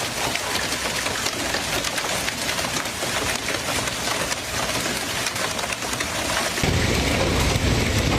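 Hailstorm: a dense, even pelting of hail and rain on surfaces, with countless small hits. About two-thirds of the way through it turns louder, with a deep rumble underneath.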